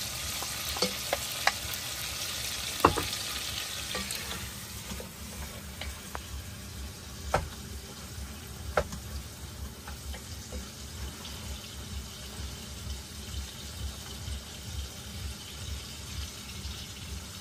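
Tomato and scrambled egg sizzling in a pot while being stirred with a wooden spatula, with a few sharp knocks of the spatula against the pot and plate. The sizzle is strongest in the first few seconds, then settles.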